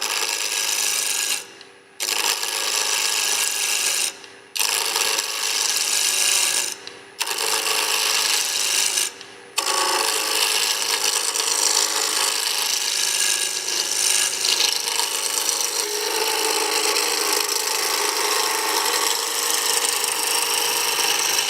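A turning chisel cuts a square pine blank spinning on a wood lathe, giving a harsh rasping hiss as it takes down the corners and throws off flakes. The cut breaks off briefly four times in the first ten seconds as the tool is lifted, then runs on without a break.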